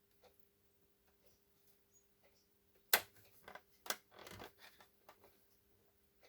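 Handling noise on a craft table: scattered light ticks, a sharp tap about three seconds in and another just before four seconds, then a brief rustle or scuff of paper, over a low steady hum.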